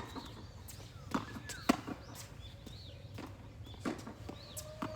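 Tennis ball being struck by rackets and bouncing during a rally: five sharp pops at uneven gaps of about half a second to two seconds, the loudest a little under two seconds in.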